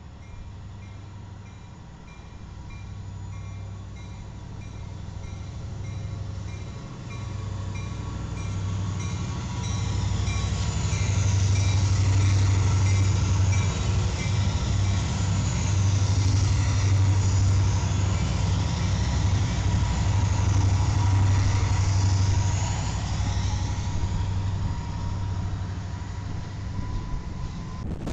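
BNSF diesel-electric freight locomotives passing close by. Their engines make a steady low drone, with wheel and rail noise on top, that builds as the lead units approach, is loudest through the middle as they pass, and eases slightly near the end.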